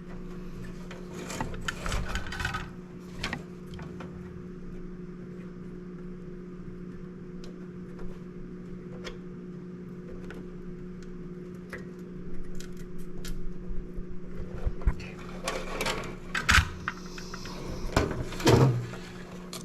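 Small clicks, taps and scraping as a diode's leads are worked through the holes of a pinball machine's circuit board, a tight fit, over a steady electrical hum. The handling sounds come in a cluster about two seconds in and grow busier and louder over the last several seconds.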